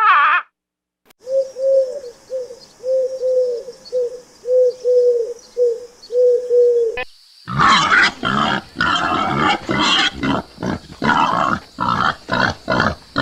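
Animal calls: a run of short, evenly repeated low calls, about two a second, then after a cut a louder stretch of rapid, harsh calls.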